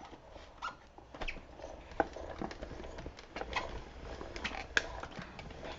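Soft rustling of paper and cardstock being handled, with scattered light clicks and taps.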